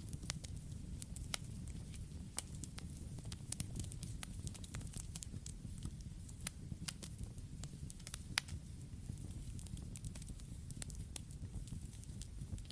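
Campfire burning: a steady low rumble under frequent, irregular crackles and pops of burning wood, with one sharper pop about eight seconds in.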